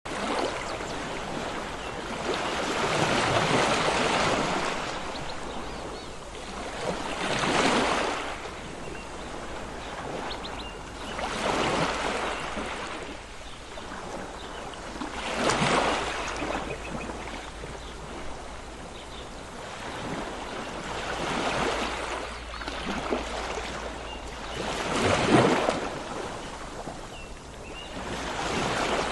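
Sea surf: waves breaking about every four seconds, each one a rising and falling rush, over a steady wash of water.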